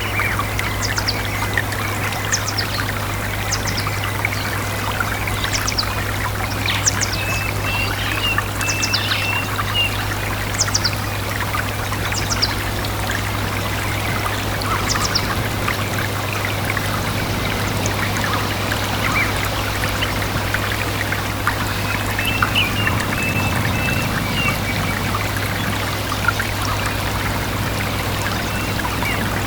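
Small stream trickling and babbling steadily. Over it a songbird repeats short, high, falling notes about once a second through the first half, and a brief chirping trill comes twice.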